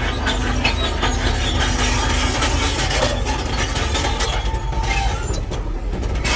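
Heavy earthmoving machinery at work: a steady low engine rumble under dense metallic clanking and squealing.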